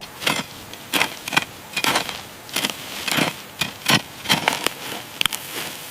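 Irregular dry crackling and crunching, about two sharp snaps a second over a light rustle, as of dry plant litter and soil being crushed and dug by a foraging crested porcupine.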